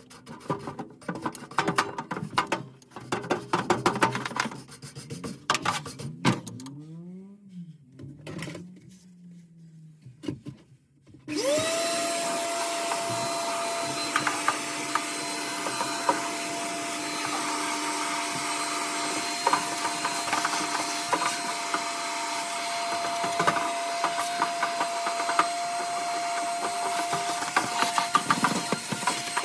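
Clattering and knocking of parts being handled. Then an electric vacuum cleaner switches on about eleven seconds in and runs with a steady whine and rush of air, beginning to wind down at the very end.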